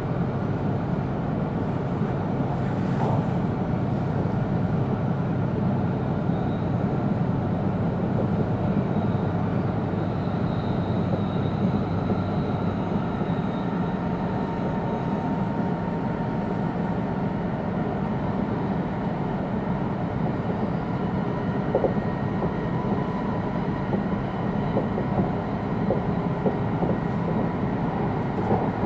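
Steady running noise of an E2 series Shinkansen train, heard inside the passenger car: an even, low rumble of the train in motion.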